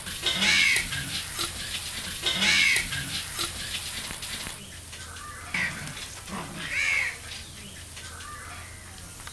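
Crows cawing repeatedly, each caw rising and falling in pitch. Under them is the hiss and crackle of oil deep-frying, which stops about halfway through.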